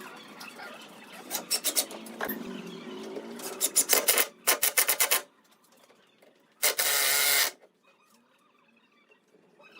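Quick, rhythmic rasping strokes of a hand tool working wood, such as a hand saw or sandpaper. Past the middle comes a single loud, steady burst lasting just under a second, then near silence.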